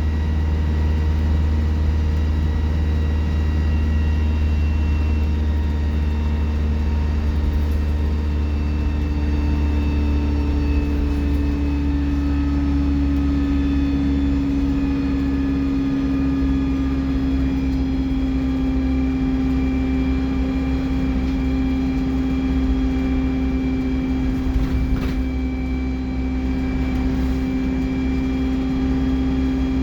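Alexander Dennis Enviro 200 bus's diesel engine running under way, with a loud turbocharger whistle over a deep steady drone. The whining tones drift slowly in pitch, and one strong whine comes up about a third of the way in and then falls gently.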